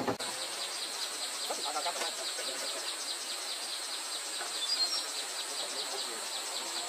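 Insects in the forest chirring steadily: a high, evenly pulsing trill that keeps on without a break.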